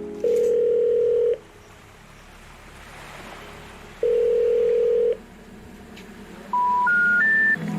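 Telephone call progress tones: two long steady ringback beeps about three seconds apart, then three short tones stepping up in pitch near the end, the three-tone signal that the call cannot be completed.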